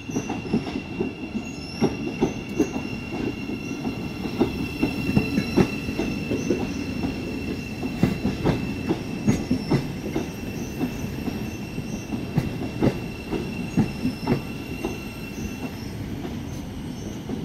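Class 717 electric multiple unit running slowly into a platform, its wheels clicking and knocking over rail joints and pointwork. A steady high-pitched wheel squeal runs under the clicks and stops near the end.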